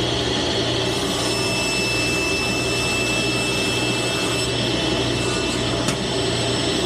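Table saw and its dust collection running steadily: a loud, even machine whir with a low hum and a thin high whine, with no cut under way.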